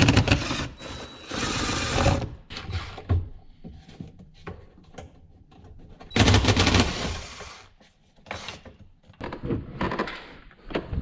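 Power screwdriver running in short bursts as it backs screws out of a pickup truck's inside door panel, with two longer runs about a second and a half in and about six seconds in.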